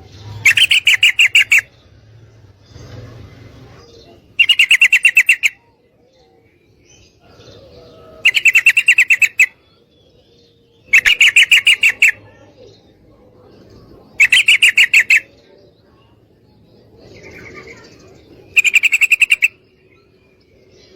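Female yellow-vented bulbul (trucukan) call: six loud, roughly one-second bursts of fast repeated chattering notes, about every three to four seconds, with fainter bird chatter in between.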